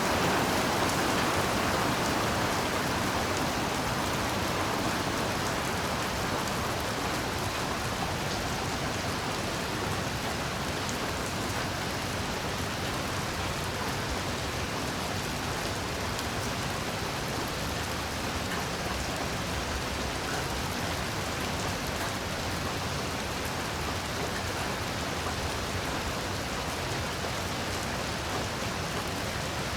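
Heavy rain falling steadily, an even hiss of countless drops, a little louder in the first few seconds before it settles.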